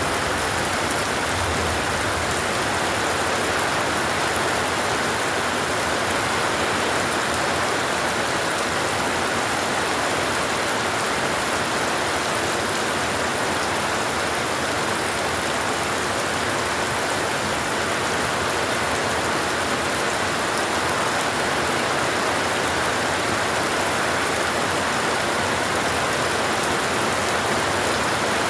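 Very heavy rain falling steadily, an even downpour with no break or thunderclap.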